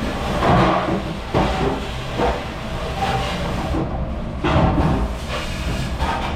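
Dish-room noise: a steady hissing rush of water spray, with irregular clattering of dishes and racks about once a second.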